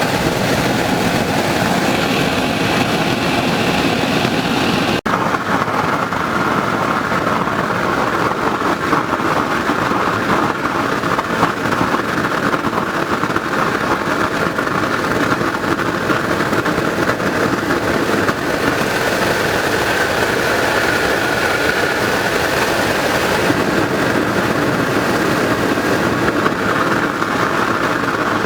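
Waste oil burner built from a car muffler running hard on a blower, a loud steady rush of forced air and burning oil likened to an old turbojet. There is a momentary break about five seconds in.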